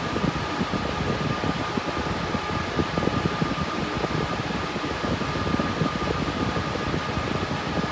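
Cooling fans of a GPU mining rig with RTX 3060 Ti graphics cards running steadily under full mining load: an even rushing of air with a faint steady high whine and a fluttering rumble beneath.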